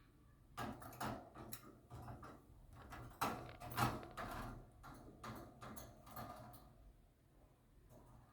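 A run of irregular clicks, knocks and rattles, typical of a parrot working at its cage door, loudest near the middle and dying away towards the end.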